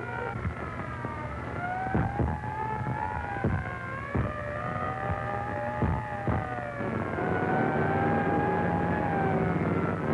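Air-raid sound effects on an early sound-film track: a wavering drone that slowly rises and falls in pitch, with several sharp bangs of bombs or gunfire.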